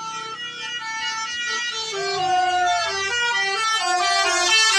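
Bus's multi-note musical horn (a telolet-style horn) playing a tune of quick stepping notes, growing louder.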